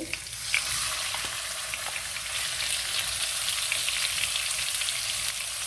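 Raw chicken breast strips sizzling in hot oil with chopped garlic in a nonstick wok. The sizzle starts about half a second in as the chicken goes in, then holds steady with small crackles.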